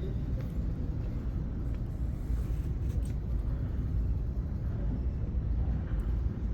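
Steady low rumble of background noise in a large indoor exhibition hall, with no distinct events.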